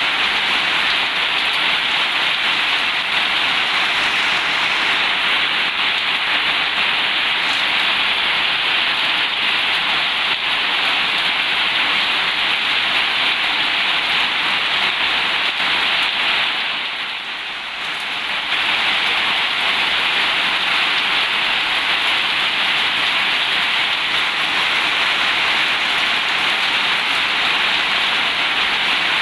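Heavy rain falling in a steady, even hiss, easing briefly about halfway through before returning to full strength.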